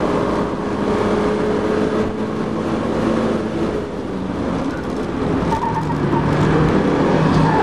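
In-cockpit sound of a Mazda MX-5's 1.6-litre four-cylinder engine under way on track, with wind noise from the open top. The engine holds steady revs, eases off a little before halfway, then pulls again near the end with the revs slowly rising.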